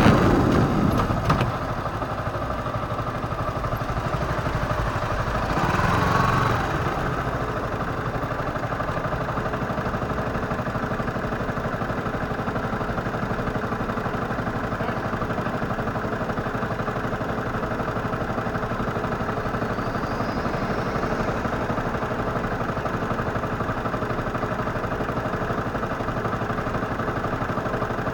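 Motorcycle engine running steadily at a low, even pitch, louder at the start and easing within the first two seconds, with a brief louder swell about six seconds in.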